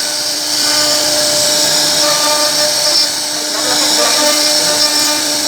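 CNC router spindle running steadily with a high-pitched whine as its bit cuts into wood.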